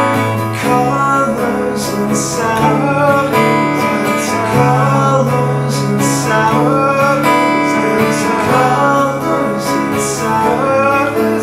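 Instrumental passage of an acoustic folk-pop song: strummed acoustic guitar with piano, held chords changing every second or two.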